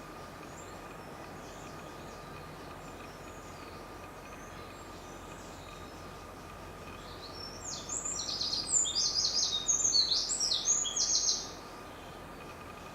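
Mosuke wren, the Izu Islands race of Eurasian wren, singing one loud, fast song of high trills and rattling notes lasting about four seconds. The song starts about seven seconds in and stops abruptly. Faint high calls and a steady background hiss come before it.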